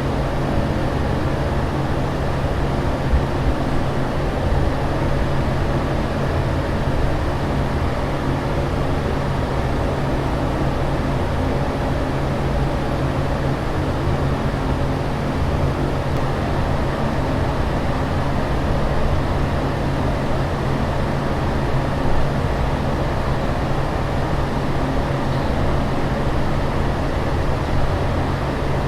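Steady aircraft cabin noise in flight: an even, low drone of engine and air noise with a steady low hum under it.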